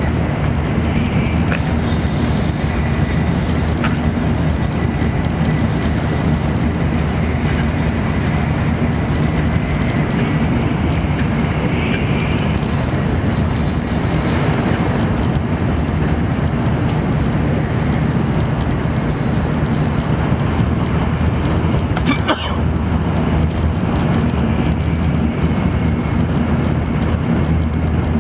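Steady low rumble of a Shinkansen bullet train running at speed, heard from inside the passenger cabin. A faint high whine sits over it in the first half, and there is one brief click about 22 seconds in.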